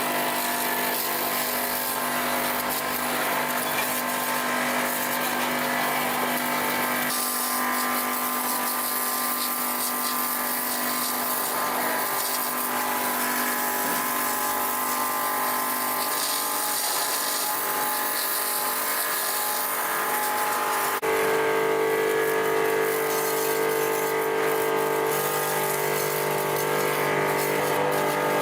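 A machine running steadily, a hum of several held tones. The sound changes abruptly about seven, twelve and twenty-one seconds in, and is louder after the last change.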